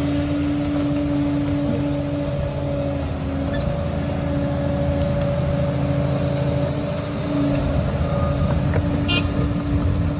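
Heavy diesel engine of a Liebherr 746 crawler dozer running steadily with an even hum, growing a little louder about three quarters of the way through.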